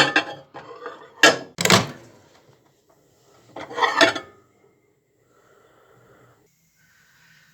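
Sharp clacks and clatters of things being handled in a kitchen: three in the first two seconds, another clatter about four seconds in, then only a faint low sound.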